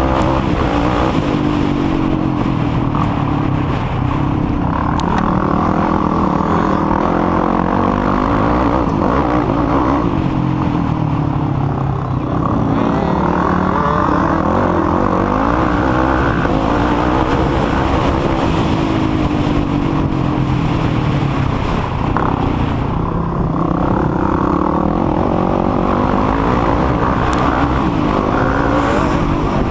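Racing quad (ATV) engines revving hard and falling back through the gears, the pitch rising and dropping every few seconds over a dense low rumble.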